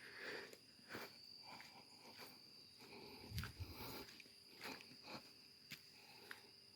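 Near silence: faint outdoor ambience with a steady high insect drone and scattered soft taps and clicks.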